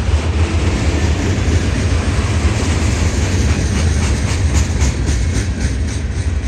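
Freight train passing with a steady low rumble, and a run of regular wheel clicks over the rail joints in the second half.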